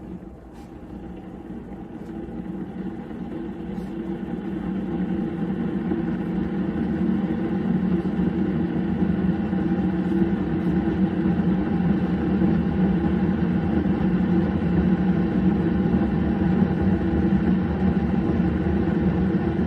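Keurig K-Mini Plus single-serve coffee maker running mid-brew: a steady mechanical hum that grows louder over the first several seconds, then holds steady.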